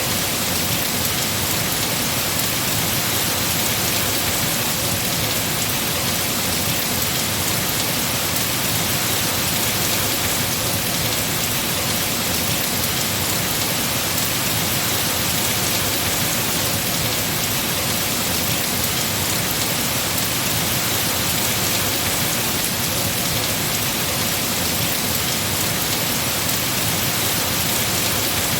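Heavy rain falling steadily on tree foliage, a dense even hiss.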